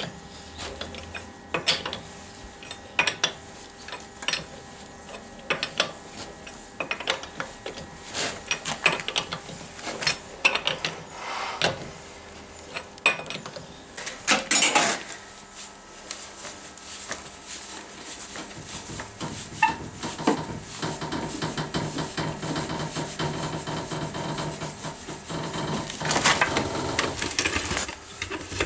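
Hand tools clinking and knocking against metal suspension parts, with a denser run of rapid clicking in the second half.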